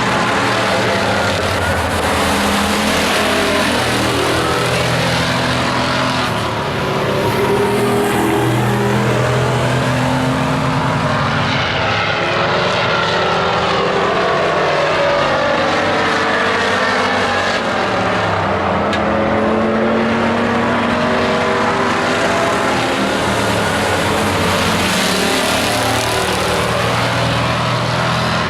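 Several race trucks' engines running together at racing speed, their notes rising and falling as they accelerate, lift and pass.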